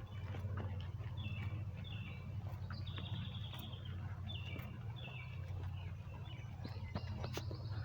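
Songbirds singing: short phrases of quick notes stepping down in pitch, repeated every second or so, over a steady low rumble.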